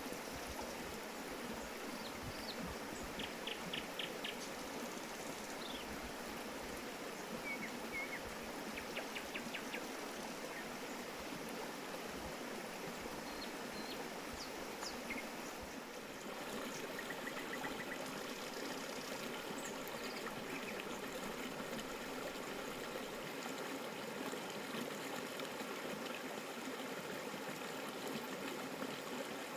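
Steady rushing and trickling of a stream, with a few short high chirps over it.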